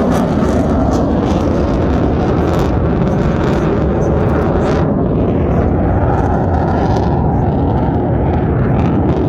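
Jet aircraft engines roaring loudly and steadily during an airshow display.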